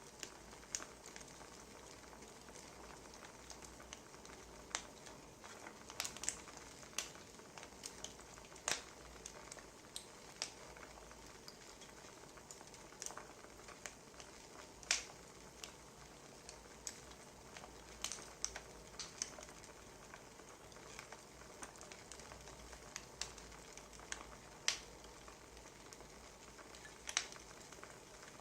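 Wood fire crackling: irregular sharp pops and snaps, a few a second at most, over a faint steady hiss.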